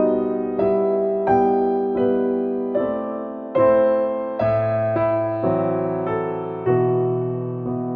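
Background piano music: slow notes and chords struck about once a second, each fading away before the next.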